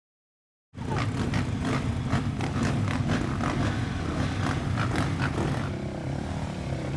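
Motocross motorcycle engines running hard on a race track, cutting in suddenly after a moment of silence, with rapid rises and falls in revs.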